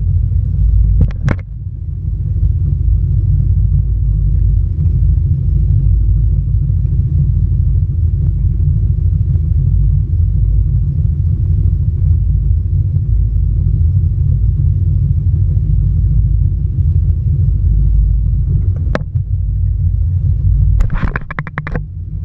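Jet ski engine running steadily with a heavy low rumble. A sharp click comes about a second in and another near the end, followed by a short higher-pitched rasp.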